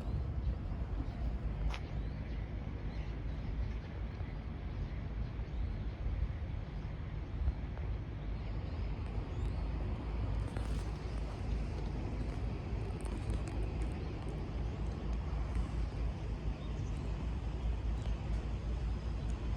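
Outdoor background noise: a steady low rumble with a few faint clicks, and no clear calls or voices.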